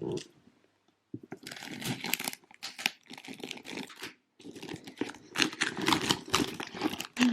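Parcel packaging being opened by hand: bursts of crinkling, rustling and tearing with small clicks. It starts about a second in and pauses briefly about two thirds of the way through.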